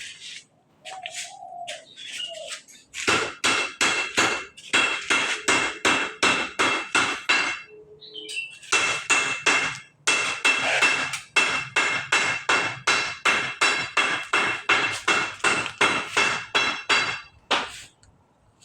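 Hammer blows on metal, about three or four a second, each leaving a short ringing tone, in two long runs with a brief pause about eight seconds in.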